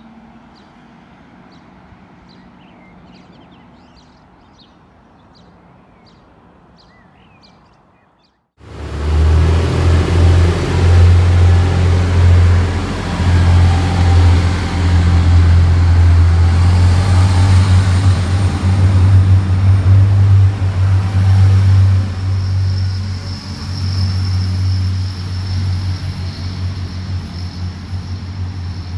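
Faint birdsong over a distant train. Then, after a sudden cut about eight seconds in, a loud Irish Rail diesel multiple unit passing close with a steady low engine drone and wheel-on-rail noise, easing after about twenty seconds.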